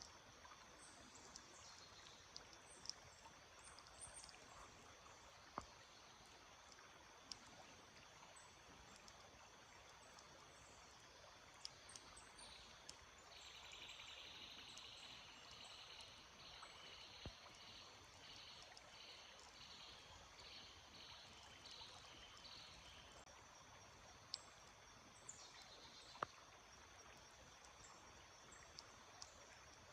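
Faint stream water trickling steadily, with scattered short bird chirps. Through the middle, about ten seconds of a rapid pulsing trill.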